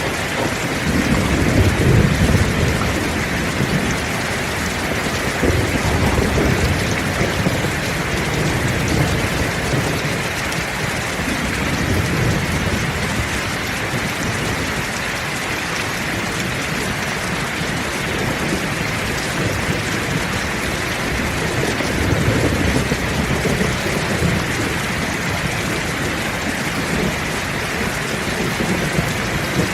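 Heavy rain pouring steadily, with low rolls of distant thunder swelling and fading several times.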